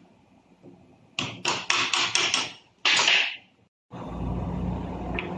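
Hammer tapping on metal gearbox parts: a quick run of about six knocks, then a louder, longer hit. After a brief cutout a steady low hum follows.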